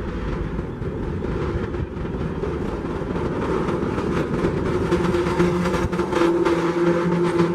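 Freight train rolling past on the rails, a continuous rumble with faint repeated clicks; about halfway through, a steady droning hum comes up and grows louder.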